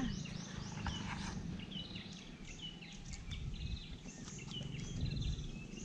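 Birds chirping, a run of short high calls repeated every fraction of a second, over a steady low rumble.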